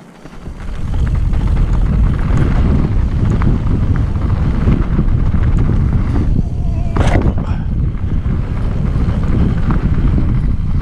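Wind buffeting the microphone of a mountain-bike rider's camera, with the bike rattling over rough trail. The rumble builds up within the first second as speed picks up, and there is a sharp clack about seven seconds in.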